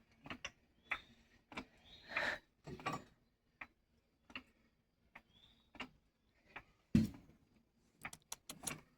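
Irregular clicks and knocks of hands and tools working on a truck wheel while a big tire is mounted, with one heavier thump about seven seconds in and a quick run of sharp clicks near the end.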